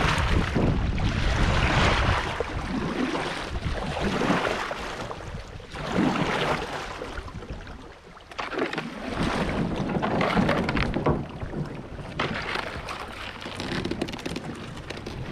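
Water rushing and splashing around a kayak moving down a river, rising and falling in swells every few seconds, with wind buffeting the microphone.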